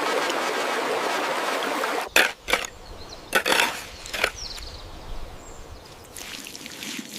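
Running stream water, a steady rush that cuts off abruptly about two seconds in. After it come several short rustling or knocking sounds over quiet background.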